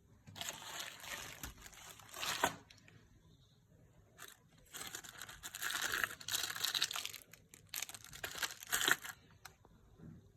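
Firework crackling in two long runs of dense, rapid crackle with a short lull between, the second run longer.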